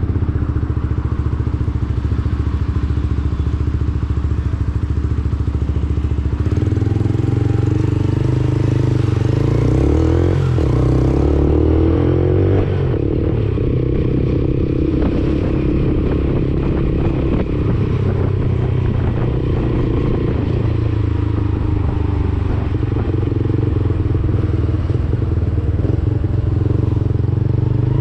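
Lexmoto Assault 125's single-cylinder 125cc engine running through an aftermarket Black Widow exhaust while riding. The engine note steps up about six seconds in, then rises and falls in pitch for a few seconds before settling into a steady drone.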